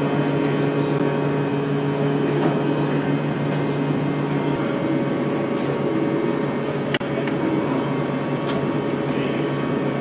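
Steady hum of a warship's ventilation and machinery inside a compartment below decks, with several held tones over a low rushing, and a sharp click about seven seconds in.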